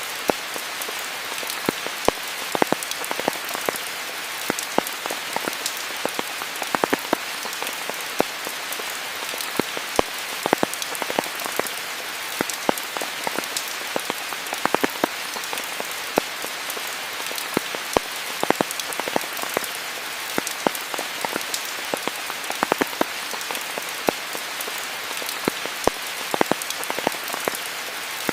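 Steady rain falling: an even hiss with many sharp, close drop hits scattered irregularly throughout.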